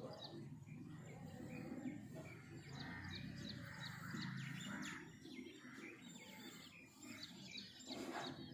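Birds chirping in quick runs of short, high chirps, twice, over a steady low background rumble.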